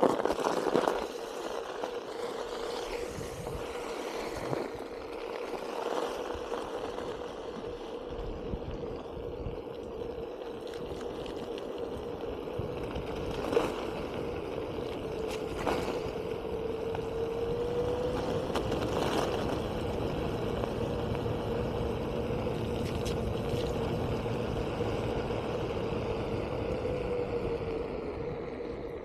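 Onewheel GT's hub motor whining steadily at one pitch while riding, the pitch rising briefly a couple of times, over tyre hiss on wet pavement and wind noise, with a few sharp knocks from the board.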